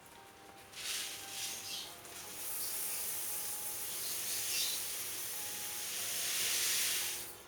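Dry unhulled rice and corn kernels being poured into a hot pan for dry roasting: a steady, hissing rattle of grain that stops abruptly near the end.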